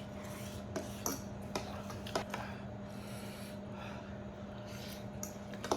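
Eating by hand: scattered soft clicks and wet smacks of chewing and handling grilled chicken, over a steady low hum.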